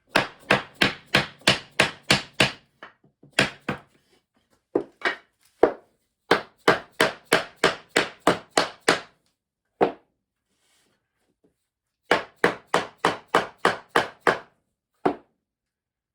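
A hammer knocking a compressed-wood subfloor tile along to seat its tongue-and-groove joint against the next tile. The blows are sharp and come in quick runs of about three to four a second, broken by short pauses and a few single knocks.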